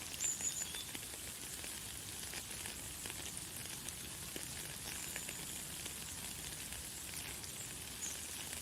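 Light, fine rain falling steadily, an even high hiss full of tiny drop ticks. A bird gives a few brief high chirps, about a quarter second in, around five seconds in and near the end.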